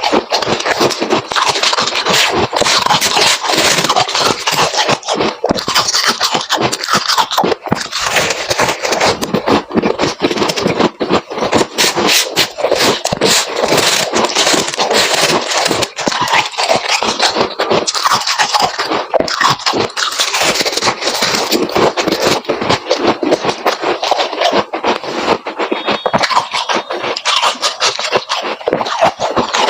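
Freezer frost being crunched up close: a dense, unbroken run of crisp crackling and scraping.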